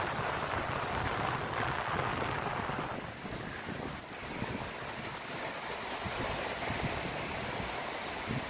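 Ocean surf washing onto the shore, loudest in the first three seconds and then easing off, with wind buffeting the microphone.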